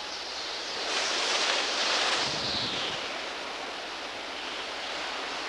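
Hurricane Andrew's wind rushing steadily, with a gust swelling about a second in and easing off after a couple of seconds.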